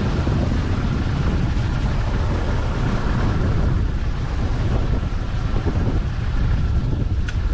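Strong gusty wind blowing on the microphone: a steady, loud low rumble with hiss over it.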